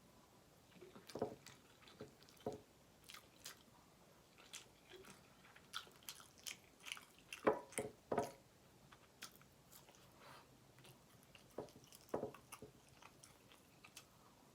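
Close-miked eating sounds: a person chewing and biting food, with irregular wet mouth smacks and clicks. The sounds come thickest and loudest about halfway through.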